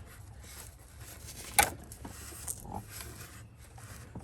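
A sharp plastic click about one and a half seconds in, followed by a few lighter clicks and handling noise, as a wiring connector is pried off in the engine bay.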